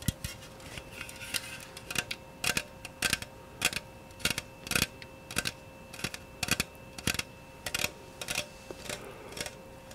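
Light, sharp tapping on an object, in irregular little groups of one to three taps a second.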